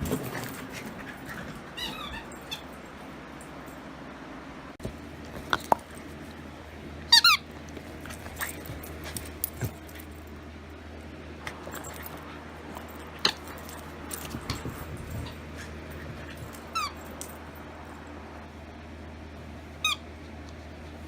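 An excited Chihuahua-Dachshund mix at play: short high squeaks now and then, with scattered knocks and clicks. A steady low hum runs under it from about five seconds in.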